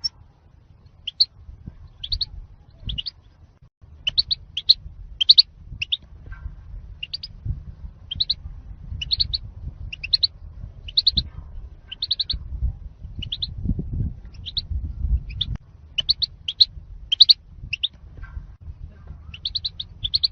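European goldfinch calling: short, high, separate chirps, about one or two a second, some in quick pairs, over a low background rumble.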